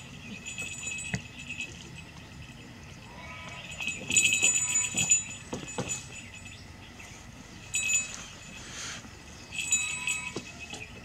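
Four bursts of high, rapid trilling calls from a bird, over rustling of dry grass and netting being handled, with a few soft knocks about four to six seconds in.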